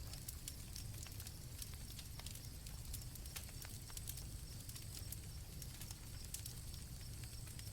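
Faint crackling campfire, scattered sharp pops and snaps over a low rumble, with crickets chirping steadily in the background.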